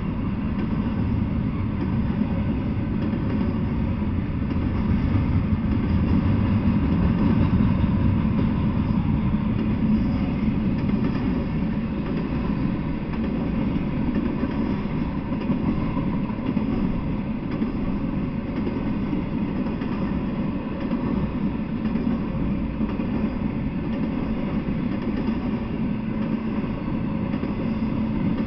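Intermodal freight train of truck trailers on flatcars rolling past at a steady speed: a continuous, unbroken rumble of steel wheels on rail.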